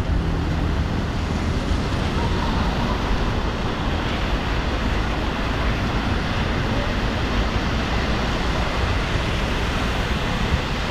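Heavy rain falling, with wind buffeting the microphone: a steady, loud rushing noise with no breaks.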